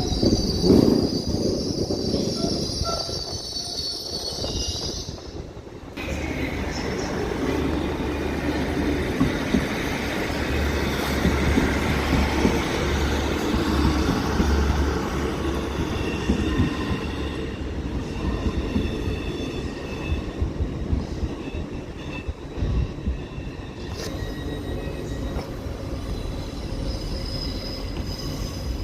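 Passenger trains moving through a station, their wheels squealing in high tones against the rails. The sound changes abruptly about six seconds in to a low steady hum with rushing noise, and changes again near the end.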